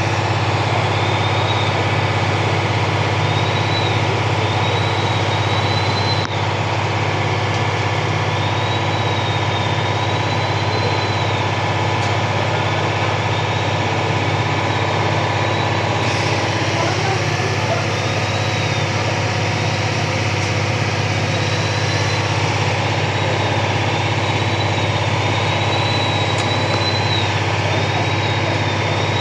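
Large truck engine idling steadily, with a thin high wavering whine coming and going above it.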